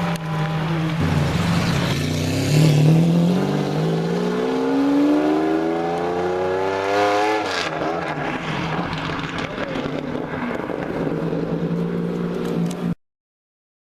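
A sports car's engine accelerating hard, its pitch climbing steadily for about six seconds and then dropping sharply. It runs on at a lower, steadier pitch, and the sound stops abruptly near the end.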